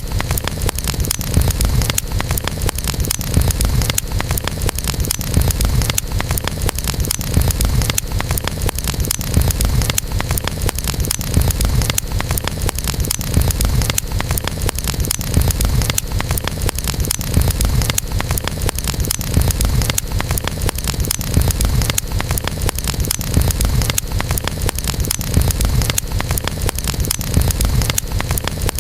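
Campfire burning steadily: wood crackling in quick, dense ticks over a constant low rumble of the flames.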